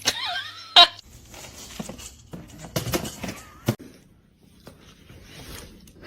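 A pet animal gives a short high cry that glides in pitch at the start. A loud sharp knock follows just before the first second, with more knocks and rustling later.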